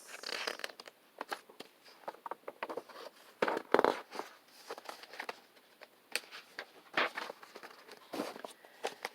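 Paper rustling and light handling noises, like pages of a picture book being turned, in scattered short rustles and ticks that are loudest about three and a half seconds in.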